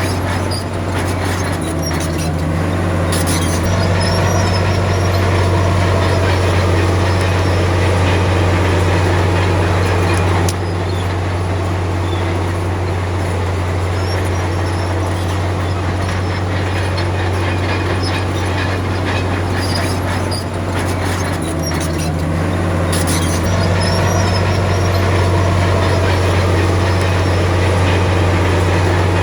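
Heavy diesel earthmoving machinery running steadily under load, its engine note rising about three seconds in and again near the end, with a few sharp knocks.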